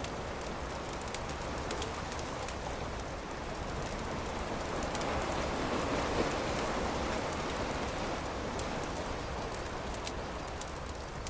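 Wood campfire crackling with frequent sharp pops over a steady rushing background of surf, which swells louder around the middle as a wave washes in, then fades.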